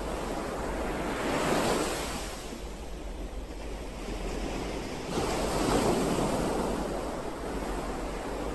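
Sea waves breaking and washing in. One wave swells and falls away about a second and a half in, and a second breaks more suddenly about five seconds in, then slowly washes out.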